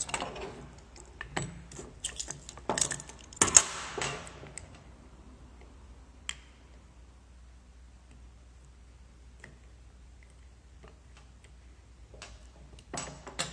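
Small clicks and clinks as a motorcycle brake caliper and its piston are handled, with a few louder scraping, rustling bursts in the first few seconds. The middle is quiet, with scattered faint ticks, and the clatter starts again near the end.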